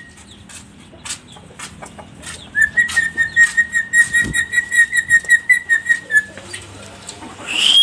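Pet lory (nuri) giving a rapid run of short, shrill notes at one pitch, about five a second, for several seconds. A rising call follows near the end.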